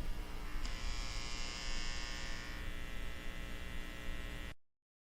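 Steady electrical hum and buzz, which cuts off suddenly into silence about four and a half seconds in.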